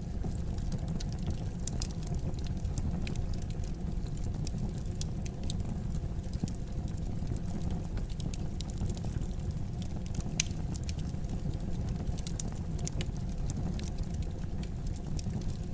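Fire burning in a fireplace, crackling: scattered sharp pops over a steady low rumble.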